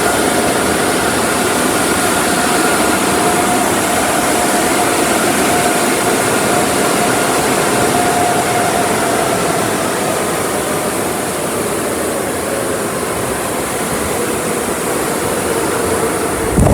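Car wash air dryer blowers running, a loud steady rush of air with a faint whine that slowly drops in pitch.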